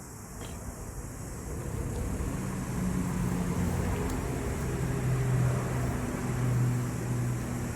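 An engine running steadily, growing louder over the first few seconds and then holding.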